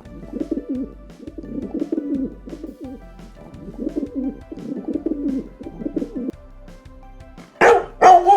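Pigeon cooing: low, rolling coo phrases about a second long, repeated over and over, over faint steady background music. Near the end, two loud, sharp bark-like calls break in.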